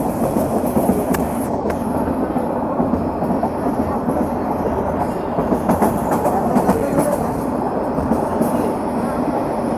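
Passenger train running on the rails: a steady loud rumble with the sharp clicks of wheels over rail joints, a cluster of them around the middle.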